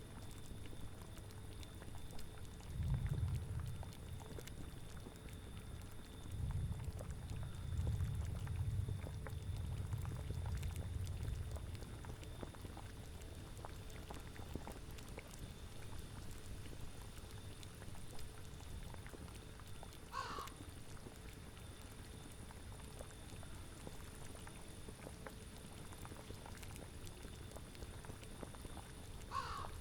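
A cauldron bubbling steadily, with low gusts of wind swelling twice in the first half. Two short animal calls sound, one about two-thirds of the way through and one near the end.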